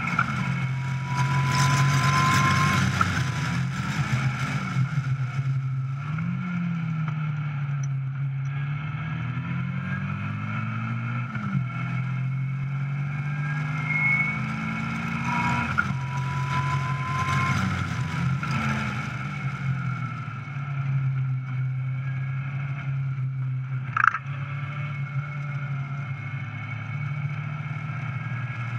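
Caterham 420R SV's four-cylinder engine heard onboard at speed on track, the revs climbing and dropping back several times through gear changes and corners, with steadier stretches between and wind rush over the open cockpit. A single sharp crack about 24 seconds in.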